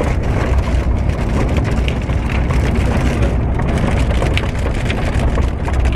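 Heavy rain pelting a vehicle, many sharp ticks of drops striking over a steady low rumble.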